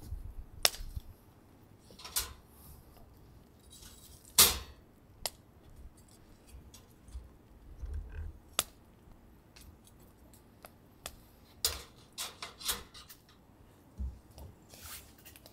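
Scattered clicks and clinks of dishes and cutlery being handled at a meal, about a dozen sharp knocks at irregular intervals, the loudest a little over four seconds in.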